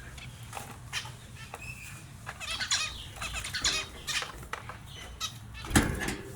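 Small finches chirping in quick, short calls, with a sudden louder burst of noise near the end.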